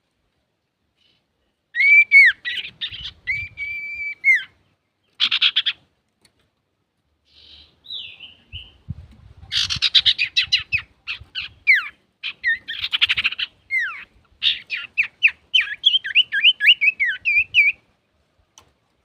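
Male common iora singing. A drawn-out whistle mixed with a buzzy rattle starts about two seconds in, followed by a short burst. After a pause comes a long, fast run of chattering and down-slurred whistled notes that stops a little before the end.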